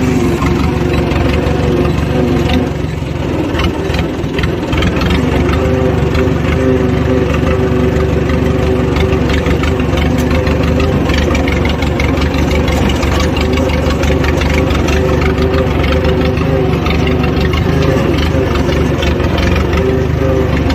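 Mahindra 575 DI tractor's diesel engine, fitted with a Holland silencer, running at a steady speed.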